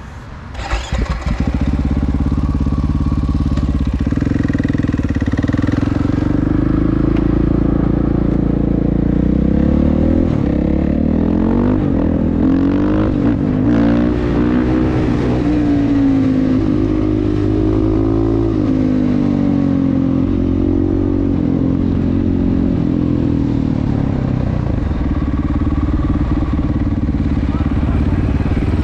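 Supermoto motorcycle engine coming up loud about a second in and running steadily. Through the middle it rises and falls in pitch again and again as the bike accelerates and slows, then settles to a steady note near the end.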